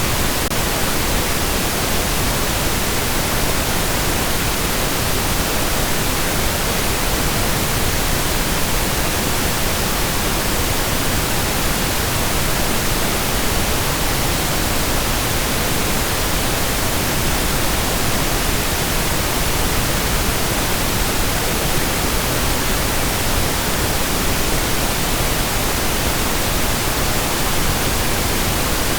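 Steady pink noise: an even, unbroken hiss across the whole range, with no change in level.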